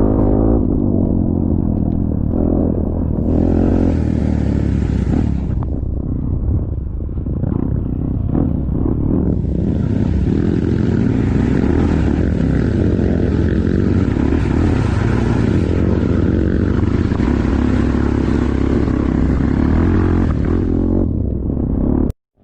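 A vehicle engine running steadily under way, with a rushing noise over it for much of the time; the sound cuts off abruptly near the end.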